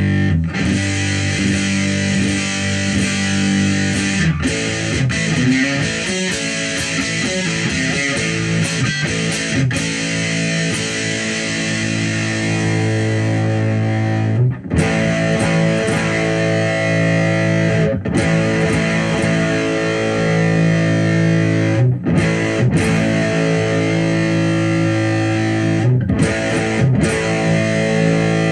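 Electric guitar played through a Movall Jumpspace overdrive pedal, ringing overdriven chords held for several seconds each, with a few short breaks between them.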